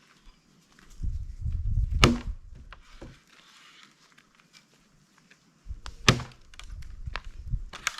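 Two sharp blows about four seconds apart, striking a heartwood log to split it for firewood, each preceded by a low rumble. The knotted log is not splitting cleanly.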